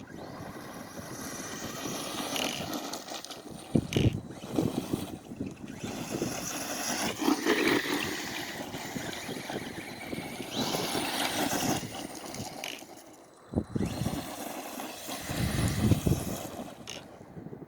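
Redcat RC truck driving over dirt, its motor and tyres swelling and fading as it speeds up and slows, with a few sharp knocks.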